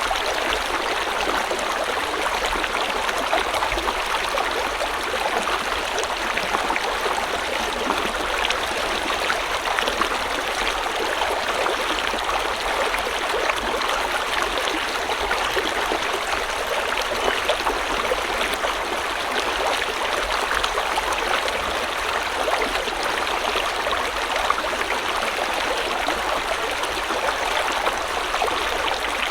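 A river stream flowing steadily over stones, with a fine, even babbling and splashing texture.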